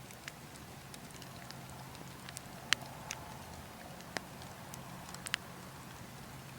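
Burning logs crackling: irregular sharp pops and ticks, the loudest about halfway through, over a steady low wind rumble.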